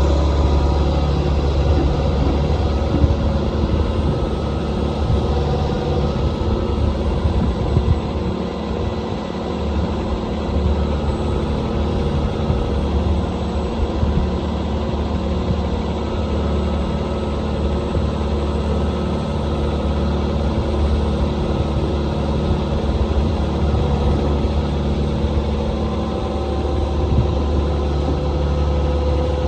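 Heavy diesel engine running steadily, its note shifting slightly now and then.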